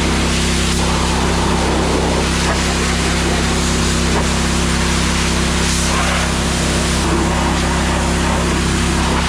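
Steam pressure washer running steadily: a constant engine hum under a broad, even hiss.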